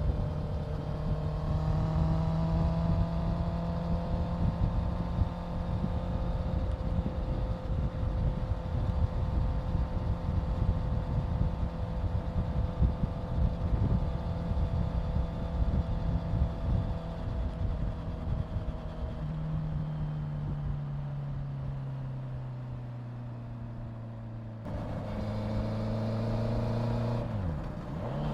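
Honda CBR650F's inline-four engine cruising at steady revs, with wind rushing over the microphone. In the last few seconds the engine note sags lower, dips sharply and starts to climb again.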